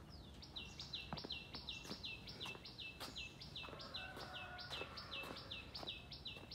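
A bird calling over and over, a short high note that slides downward, repeated about three times a second.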